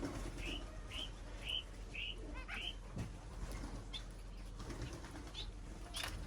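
Small cage birds chirping: a run of short, evenly spaced chirps, about two a second, for the first few seconds, then a few scattered higher calls and a brief rustle near the end.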